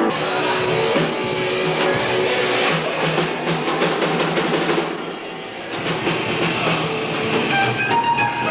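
A live rock band playing, guitar over drums, dipping briefly about five seconds in before coming back in.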